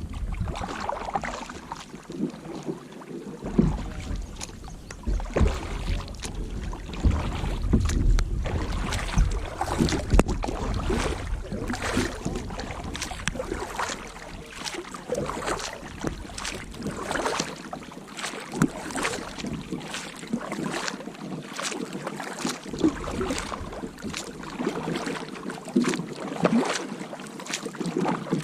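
Kayak paddle blades dipping and splashing in the water, stroke after stroke, as the kayak moves across a lake. Wind rumbles on the microphone, mostly in the first half.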